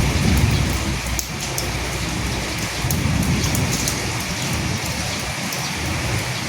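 Steady rain, with many individual drops ticking close by over the even hiss of the downpour and a low rumble that swells and fades underneath.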